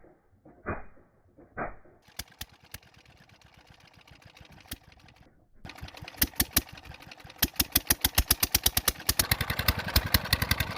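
Petter diesel engine being started: after a few soft pulses and clicks, it begins firing about halfway through, and its beats come faster and closer together as it picks up speed.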